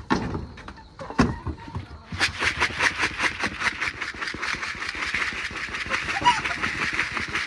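Poultry feed of grains and crumbles moistened with apple cider vinegar being stirred in a container, a fast, even scraping and rustling of several strokes a second that starts about two seconds in, after a couple of knocks.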